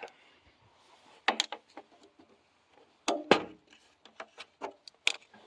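A few sharp knocks and clunks with some rubbing, as hard objects are handled; the loudest comes a little past the middle.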